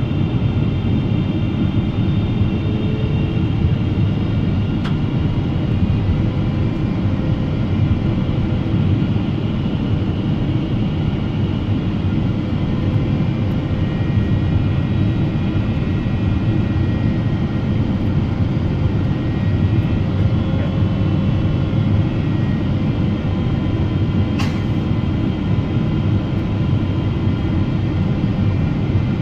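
Steady rumble of cabin noise inside a Boeing 777-300ER airliner during its descent, with faint steady whining tones over it. A single sharp click comes about five seconds before the end.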